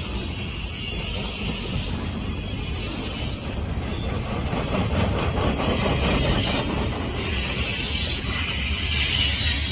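Diesel freight train rolling past: a steady low rumble with a high hiss of wheels on rail, and thin high wheel-squeal tones growing louder in the last few seconds.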